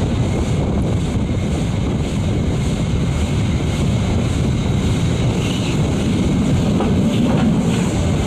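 Narrow-gauge steam-hauled passenger train running, heard from an open coach window: a steady rumble of wheels on the rails mixed with wind buffeting the microphone, with a few light clicks near the end as the wheels pass over points.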